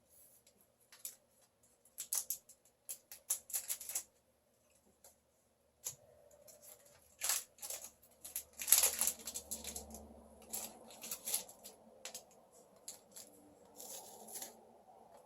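Irregular crisp crackles and clicks from a Coffee Crisp wafer chocolate bar being handled and eaten, breaking off for about two seconds near the middle.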